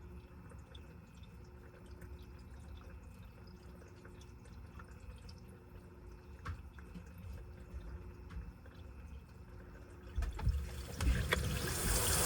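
Washing machine drum with water dripping and trickling quietly; about ten seconds in a louder rushing noise starts and builds steadily.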